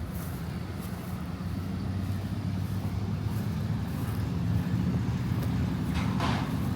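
Motor vehicle engine running with a steady low hum that grows a little louder. Two short whooshes come near the end.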